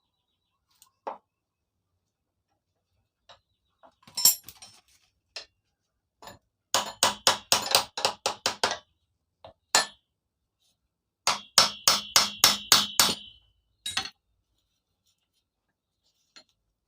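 Hammer blows on metal while taking apart a rusted Stihl 070 chainsaw. A few single knocks are followed by two quick runs of about eight strikes each, at roughly four blows a second, the later run with a ringing metallic note.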